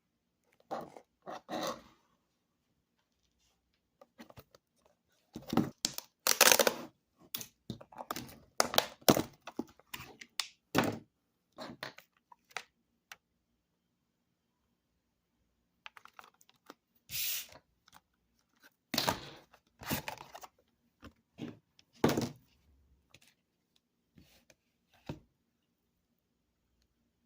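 Food packaging of a pre-made wrap being handled and torn open: bursts of crackling, tearing and thunks, in two spells with a pause of a few seconds in the middle.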